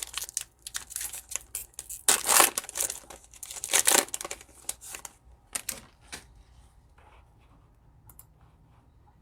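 A trading-card pack wrapper being torn open and crinkled, in bursts of rustling for about five seconds, loudest twice. Then it drops away to a few faint clicks.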